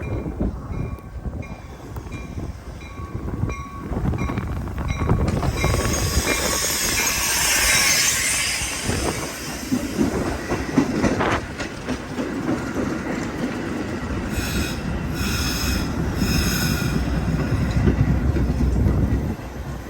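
Metra commuter train pulling into a station, a low rumble of cars and wheels with wheel and brake squeal through the middle. A rhythmic ringing about twice a second runs through the first few seconds. The rumble cuts off near the end.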